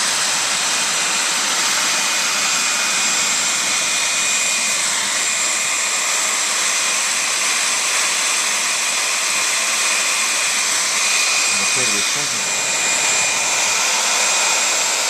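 Handheld heat gun blowing steadily with a faint high whine, heating plastic window-insulation film so it shrinks tight onto double-sided tape.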